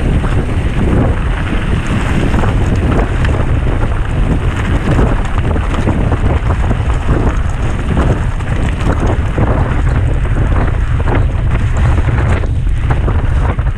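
Heavy wind buffeting on the microphone of a bike-mounted camera during a fast mountain bike descent, with constant irregular knocks and rattles from the bike over rough ground.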